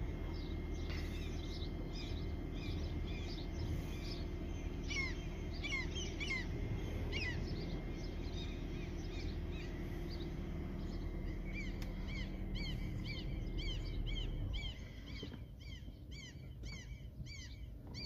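Small birds chirping in many short, quick, repeated calls over a steady low rumble. The rumble drops away about three-quarters of the way through, leaving the chirps clearer.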